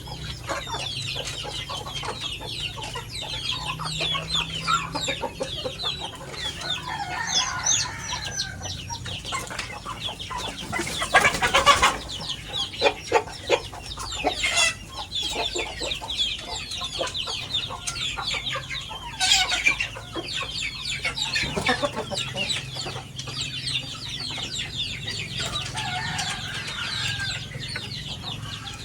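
A flock of kampung chickens calling: dense, continual high cheeping and clucking, with a few louder calls standing out, the loudest about eleven seconds in.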